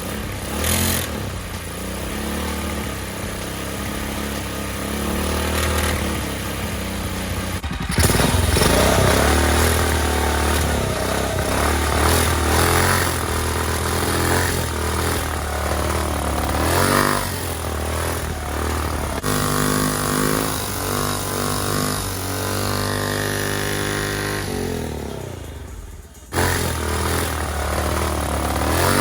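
Small 212cc single-cylinder engine of a motorized bicycle running through a custom Walker muffler and RLV exhaust tip, its pitch rising and falling as it is revved. The sound changes abruptly three times.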